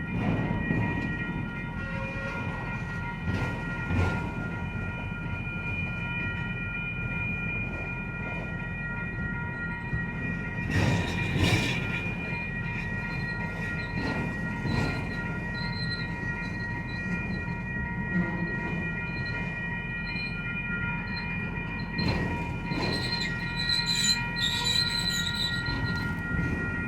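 Norfolk Southern freight train's cars rolling past, wheels squealing in steady high tones over a low rumble, with scattered sharp knocks as the wheels cross rail joints.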